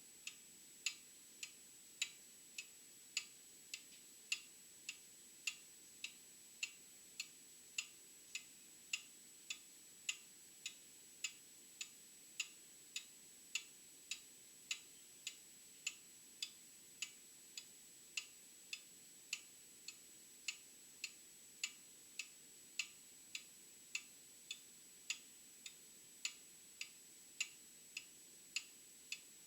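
Old mechanical clock ticking steadily, about two ticks a second, in an alternating louder-softer tick-tock, with a faint steady high-pitched tone underneath.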